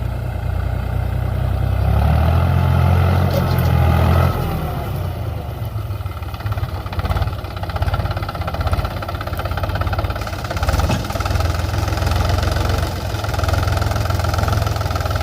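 Tractor engine running, louder for about two seconds near the start, then running steadily.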